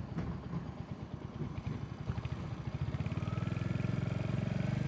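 Royal Enfield motorcycle engine running with a quick, even exhaust pulse while riding. About halfway through it gets louder and rises slightly in pitch as the bike accelerates.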